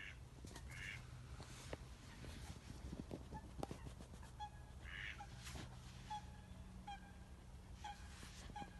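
Faint, distant waterfowl honking: short calls repeated at uneven intervals, starting a few seconds in, over a low steady hum.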